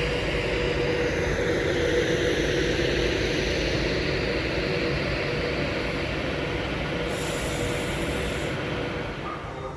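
Electric train running at a station: a steady rumble with a whining tone, and a higher whine that falls in pitch over the first few seconds. It eases off near the end.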